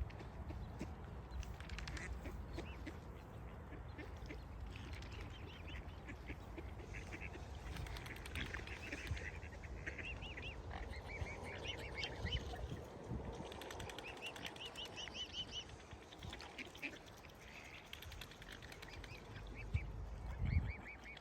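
A flock of waterfowl calling: many short quacking and honking calls in quick runs, busiest in the middle, over a steady low rumble.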